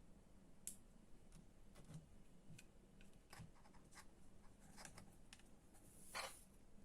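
Faint, scattered clicks and light scraping of small plastic and metal trimmer parts being handled and fitted during reassembly, with one brief louder scrape about six seconds in.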